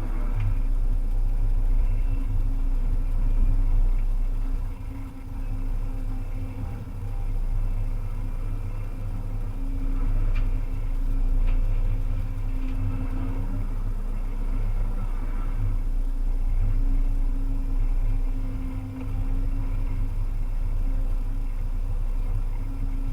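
Volvo EC300E excavator's engine running steadily, its level rising and falling a little as the machine works, with a few sharp clicks about ten and eleven seconds in.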